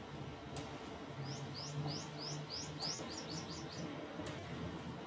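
A bird singing faintly: a run of about ten quick chirps, each sliding down in pitch and coming faster toward the end, over a steady low hum, with a few faint clicks.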